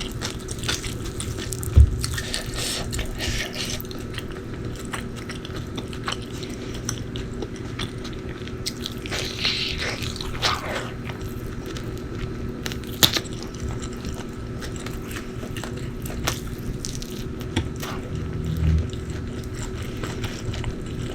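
Close-miked eating sounds: a person chewing and biting food, with wet mouth noises and occasional sharp clicks, over a steady low hum.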